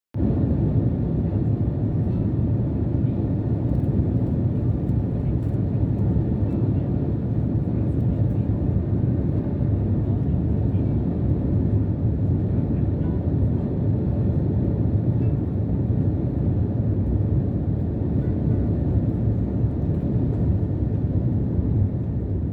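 Airliner cabin noise: a steady low rumble heard from inside the passenger cabin, unchanging throughout.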